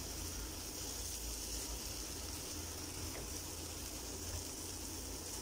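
Matar paneer masala (peas, paneer cubes and spices in oil) sizzling softly in a pan: a faint, steady frying hiss.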